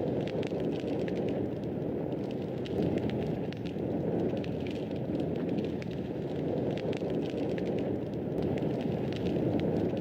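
Fireplace fire crackling: a steady low rush of flames with frequent small, irregular pops and snaps.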